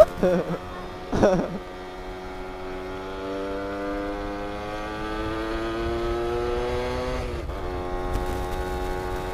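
Yamaha F1ZR's two-stroke single-cylinder engine pulling under throttle, its pitch rising steadily for about five seconds, then dropping sharply about seven seconds in and running on at a lower, steady pitch. Two brief voice sounds come in the first second and a half.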